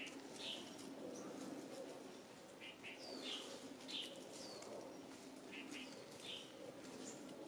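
Faint chirps of small birds, short high calls scattered throughout, several falling quickly in pitch, over a low steady background hum.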